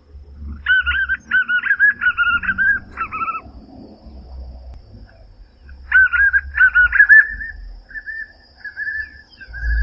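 White-eared puffbird (João-bobo, Nystalus chacuru) calling: two series of quickly repeated, rhythmic call phrases. The second series starts about six seconds in and fades toward the end.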